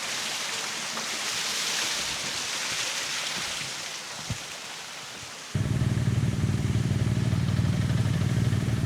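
A steady hiss of rushing water, then, about five and a half seconds in, the Kawasaki Z650RS's parallel-twin engine breathing through an IXIL full exhaust cuts in abruptly, running at a steady low idle.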